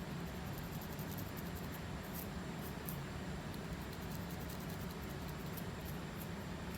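Scalp being scratched to lift dandruff flakes: quick, faint scratching strokes several times a second, over a steady low hum.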